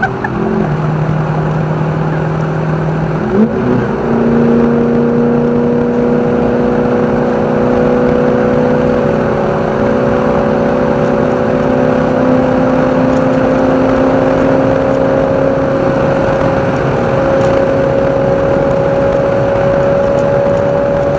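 Race car engine heard on board under way: the revs drop just after the start, pick up again about three and a half seconds in, then climb slowly and steadily in one long pull.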